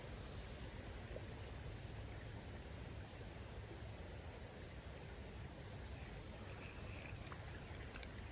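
Steady high-pitched chorus of insects, a single even tone that goes on without a break, over a low background rumble.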